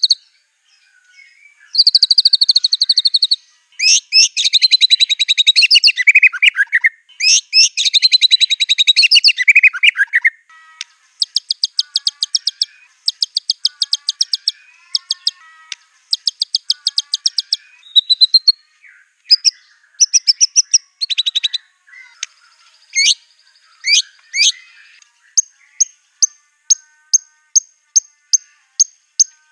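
White-rumped shama singing a loud, varied song of fast trills, rattles and sharp whistle sweeps, mixed with imitations of other birds' songs. Near the end it settles into a run of short repeated notes, about three a second.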